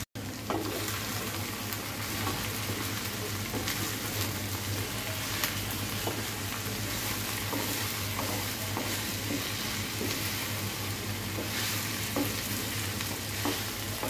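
Chopped okra sizzling in hot oil in a frying pan, stirred with a wooden spatula that scrapes and taps the pan now and then.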